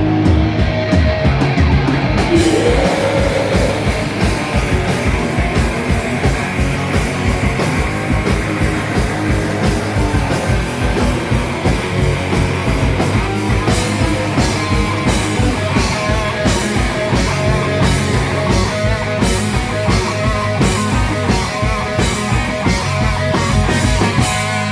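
A rock band playing loud and live: guitars over fast, steady drumming. Crashing cymbals come in about two seconds in and carry on to near the end.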